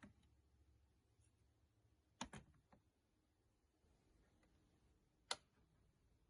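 Near silence with a few faint clicks: a quick double click about two seconds in, and one sharp click about five seconds in.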